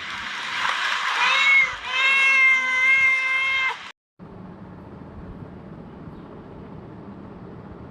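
Kitten meowing in long, drawn-out cries held at a steady pitch, with a rougher, scratchier stretch in the first two seconds. The sound cuts off abruptly about four seconds in, leaving a faint steady background noise.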